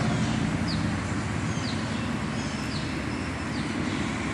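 Outdoor background: a steady low rumble, with a bird repeating a short falling chirp about once a second.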